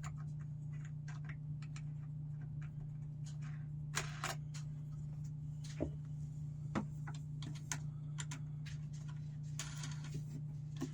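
Scattered small metal clicks and taps as butterfly (wing) nuts are threaded onto bolts in a snow shovel repair, over a steady low hum.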